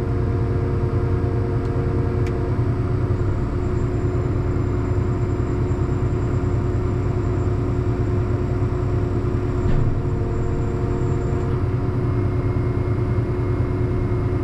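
John Deere 8320 tractor's diesel engine running steadily, with a faint high whine from about three seconds in until near the end.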